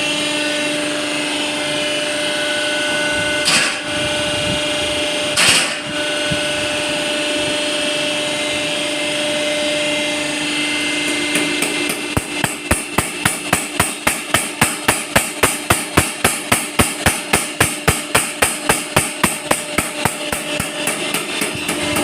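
Fuel injector ticking on a test machine, a fast even train of sharp clicks about three a second through the second half, over a steady machine hum. Two short loud noises come a few seconds in.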